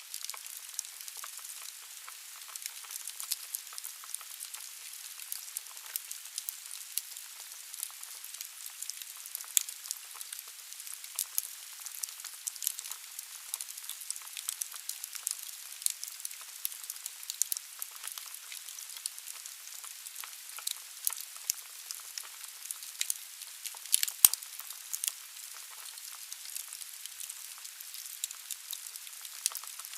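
Wood fire burning in a fireplace: a steady hiss of flames with constant crackling of the logs and sharp pops, the loudest about 24 seconds in.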